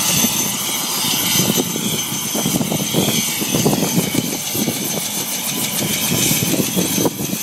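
Helicopter running steadily: a loud continuous rotor and engine noise with a rapid flutter and a steady high whine.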